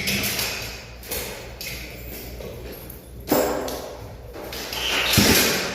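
Irregular scraping and rustling with knocks and thuds from installation work on an air-conditioner indoor unit. A sharp knock comes about a third of the way in and a louder thud near the end, over a faint steady low hum.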